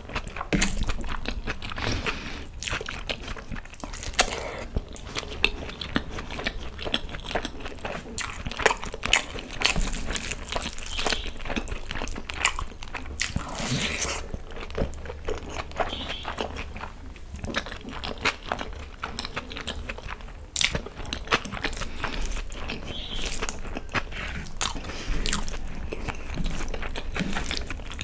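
Close-miked chewing of big mouthfuls of chicken egg fried rice eaten by hand: a steady run of wet mouth clicks, lip smacks and soft crunches, with squelches as fingers work the rice.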